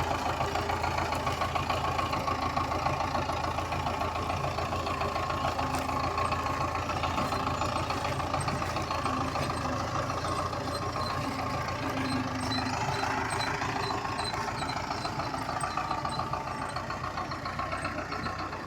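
Russi tractor's diesel engine running steadily with a rough, knocking beat, fading slightly toward the end.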